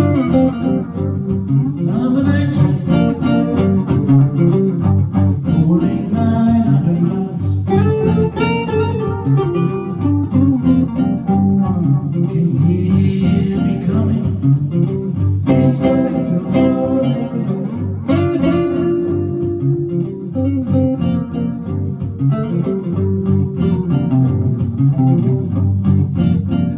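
Blues guitar playing on a 1953 Gibson ES-125 hollow-body archtop electric guitar: a steady run of plucked single notes and chords.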